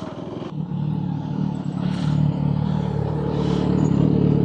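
Motorcycle engine running at low, steady revs, getting louder about half a second in and building from there; a loud exhaust.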